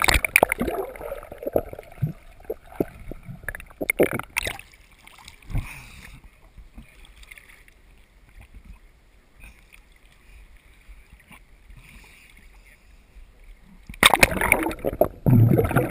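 A swimmer's splashing and sloshing water, with irregular knocks for several seconds. It then drops to a faint, muffled quiet while the swimmer is under the boat, and loud splashing comes back about two seconds before the end as the swimmer surfaces.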